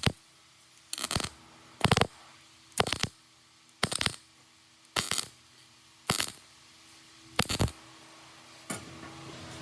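Metal being struck eight times, about once a second, each strike a short clattering metallic ring over a faint steady hum.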